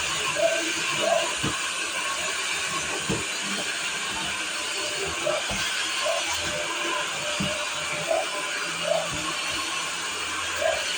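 Vacuum cleaner running with a steady rushing hiss, with short recurring squeaks and a few low knocks as it works the floor.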